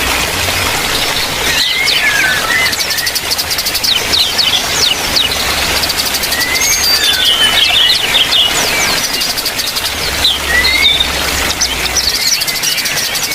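Small aviary birds chirping and calling, many short sweeping notes overlapping throughout. A low hum comes and goes underneath.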